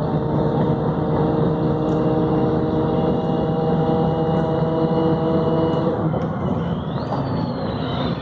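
Volvo B7RLE city bus's diesel engine running steadily. About six seconds in the engine note changes, and a high whine, typical of the Voith automatic gearbox, rises sharply and then slowly falls away.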